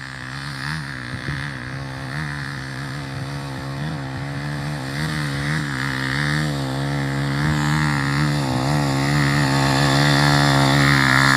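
Motorcycle engine running under load, its engine speed wavering as it labours up a climb, getting steadily louder as the bike comes closer.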